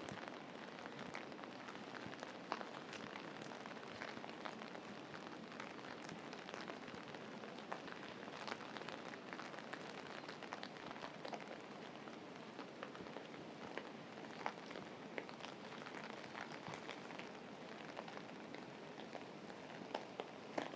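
Steady rain falling, a fairly quiet even hiss with scattered sharp drips and drop impacts throughout.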